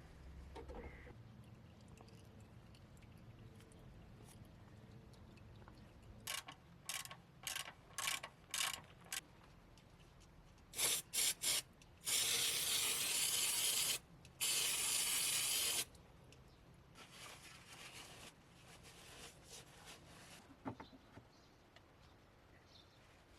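Spraying hiss: about six short bursts, a brief pause, two more quick bursts, then two long sprays of about two seconds each.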